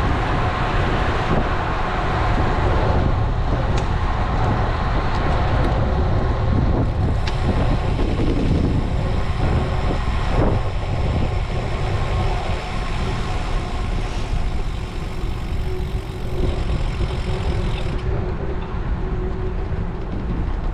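Wind rumbling on a GoPro action camera's microphone while riding a road bike, mixed with road and traffic noise. For several seconds in the middle a steadier hum joins in, from something passing.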